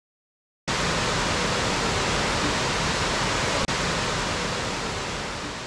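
Steady rush of a waterfall's falling water that starts suddenly about a second in, cuts out for an instant a little past the middle, and slowly fades near the end.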